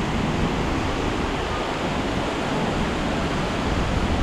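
A 110 ft waterfall in heavy flow, roaring as a steady, even rush of water.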